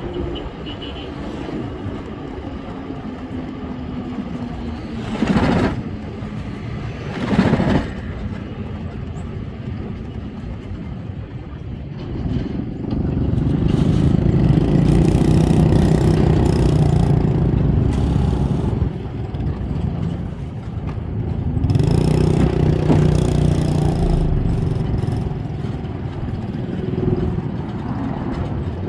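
Road traffic heard while riding, with two vehicles passing quickly about five and seven seconds in. A heavier low rumble builds from about twelve seconds in and comes back briefly around twenty-two seconds.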